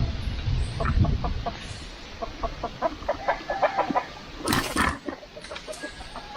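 Free-range chickens clucking, with a quick run of short clucks in the middle. A brief noisy burst stands out about four and a half seconds in.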